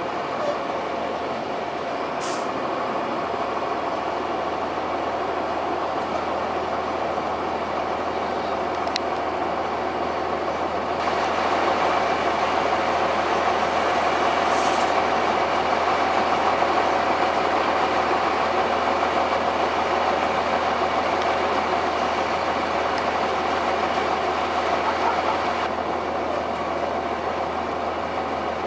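2002 Blue Bird 40-foot transit bus under way, its Cummins ISC diesel and Allison B400R automatic transmission running with road noise, heard from inside the cabin. The sound grows louder about eleven seconds in and eases back a few seconds before the end, with two short high hisses, one early and one midway.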